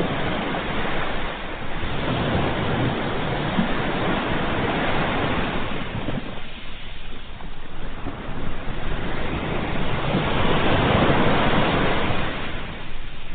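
Ocean waves breaking and washing on a shore: a steady rushing surf that swells and eases, with a lull about halfway through and a fuller swell after it.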